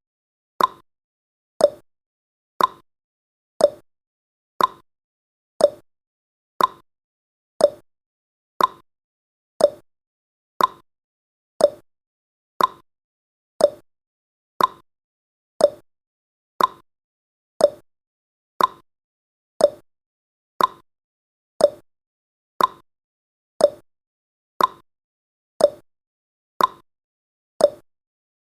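Countdown timer's ticking sound effect: one short, sharp tick each second, evenly spaced.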